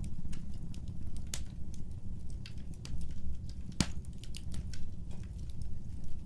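Wood fire crackling over a low steady rumble of flames, with irregular snaps and one loud pop a little past halfway.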